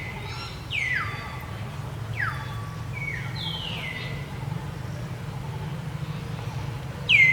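Macaque squealing: about six short, high-pitched calls that slide down in pitch, the loudest about a second in and at the end, over a steady low hum.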